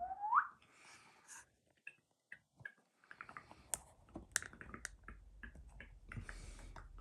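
Faint scattered clicks and small taps, like objects being handled, after a brief rising squeak at the very start.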